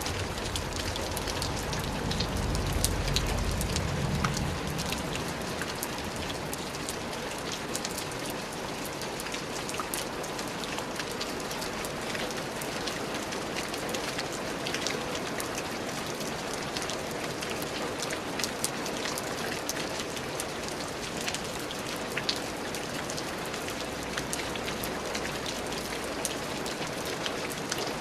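Steady rain falling, an even hiss with many separate drops ticking through it. A brief low rumble swells about two seconds in and fades by about four and a half seconds.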